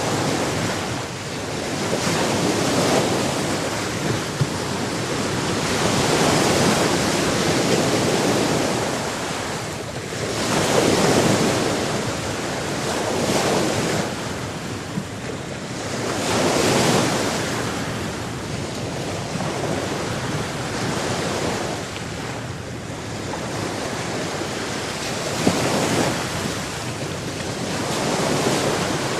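Ocean waves breaking and washing up on a shore, each surge swelling and falling back every three to four seconds, with wind noise on the microphone.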